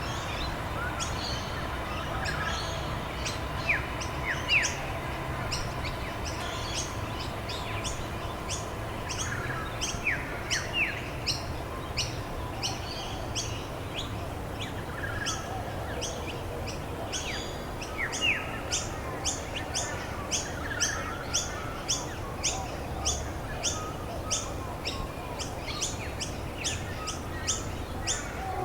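Wild birds calling: a few quick descending whistled notes, then from about halfway a steady run of short high chirps, two or three a second. Steady low background noise runs underneath.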